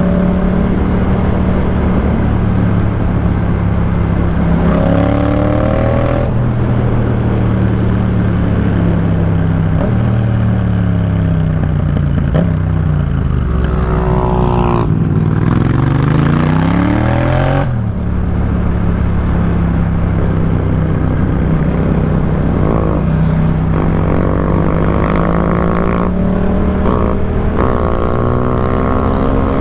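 2018 Yamaha MT-07's 689 cc parallel-twin engine through a Jeskap K4 full exhaust, ridden on the road. It holds steady revs for long stretches. In the middle the revs fall and climb repeatedly through gear changes, and near the end they rise again under acceleration.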